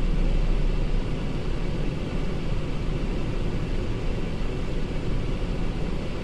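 2008 Cadillac SRX's 3.6-litre V6 running as a steady low rumble, after its misfire repair, with no misfires being logged.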